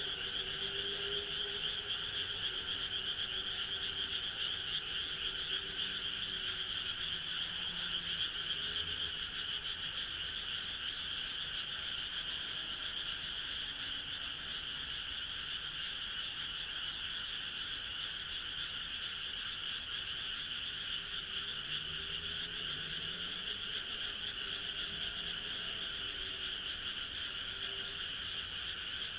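Dense, steady chorus of many frogs calling at once, an unbroken trilling mass of calls in two bands, one mid-high and one higher.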